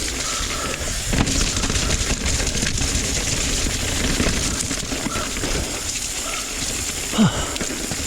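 Mountain bike rolling over a wet, rough trail: steady tyre and frame rattle noise, with a few short, faint brake squeals. A brief louder falling sound just after seven seconds in.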